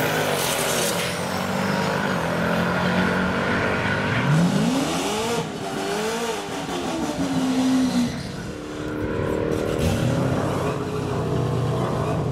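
Hemi V8 drag cars' engines revving and running. The revs climb sharply about four seconds in, waver and fall away, then rise again near the end.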